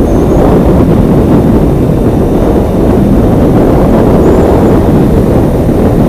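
Motorcycle under way: a steady, loud rumble of engine, road and wind noise, heavy in the low end.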